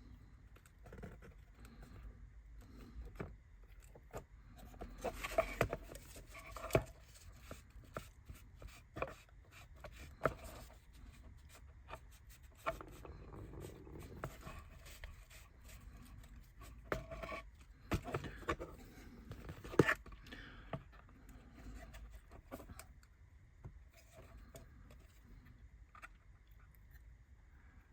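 Light clicks, taps and scraping of small laser-cut kit parts being handled and fitted by hand, in irregular clusters with a few sharper taps.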